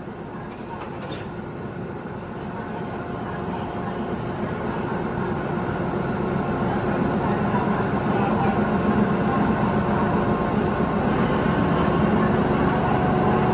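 Train locomotive running with a steady engine drone and a few held tones, growing gradually louder as it approaches.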